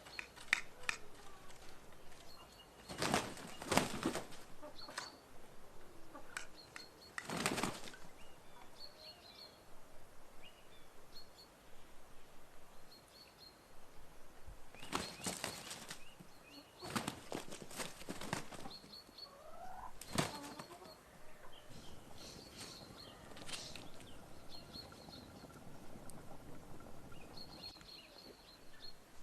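Small birds chirping faintly and repeatedly in the background, broken by about five short, loud bursts of rustling or flapping noise.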